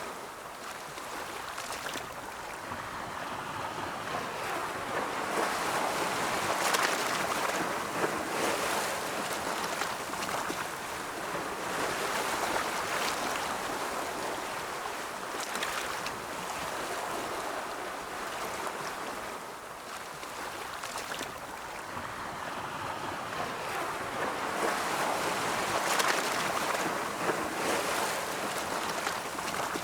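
Ocean surf rolling in: a continuous wash of breaking waves that swells and eases in slow surges, loudest about a quarter of the way in and again near the end.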